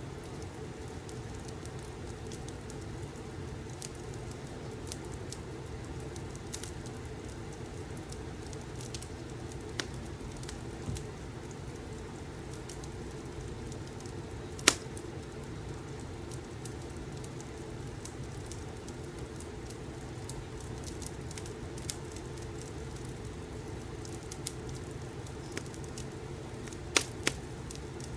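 Fireplace ambience: a steady low rumble of burning logs with scattered sharp crackles and pops, the loudest about halfway through and a quick pair near the end.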